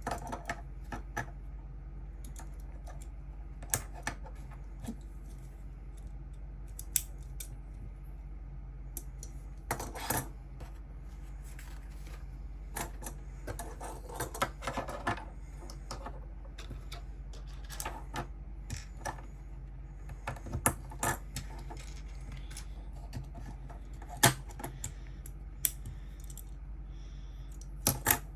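Plastic Lego pieces being handled, with sharp clicks scattered irregularly and a stretch of denser rattling around the middle, over a steady low hum.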